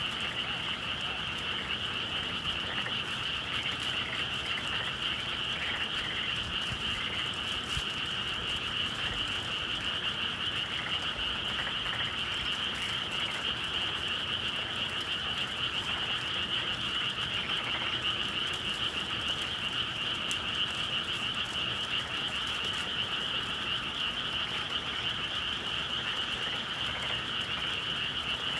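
A steady chorus of many frogs calling at once, dense and unbroken, with no pause.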